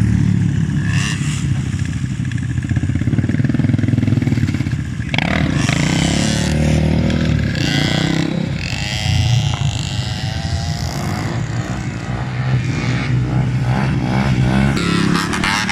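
Loud motorcycle engines running and revving continuously, with a sudden sharper burst about five seconds in.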